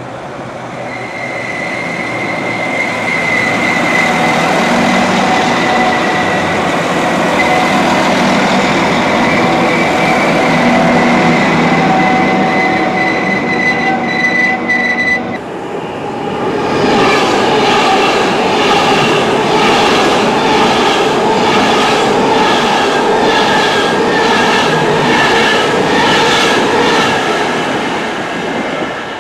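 A Northern Class 195 diesel multiple unit runs through with a steady hum and a held high whine. About halfway in, the sound changes suddenly to an Avanti West Coast Class 390 Pendolino electric train coming in fast, its wheels clattering in an even rhythm.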